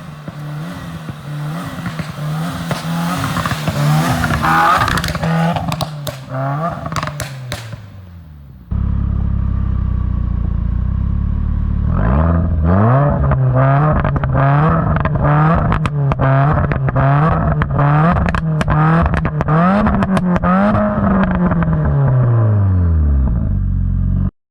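Subaru WRX turbocharged flat-four with a Borla S-Type exhaust being revved in repeated blips, crackling and popping as each rev falls. There is a brief idle partway through before the revving starts again.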